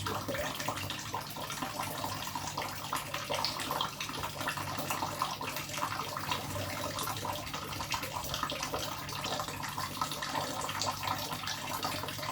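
Continuous water splashing and running while a pet songbird is bathed, full of small quick splashes.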